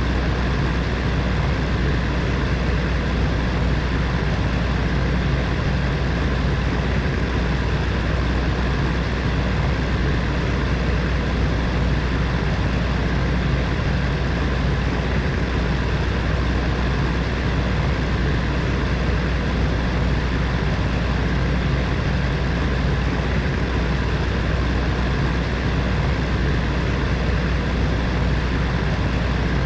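Space heater's fan running steadily: a constant whooshing of air over a low motor hum.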